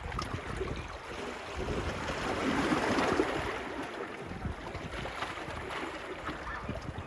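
Small sea waves washing onto a beach, one wash swelling and fading about halfway through, with wind buffeting the microphone.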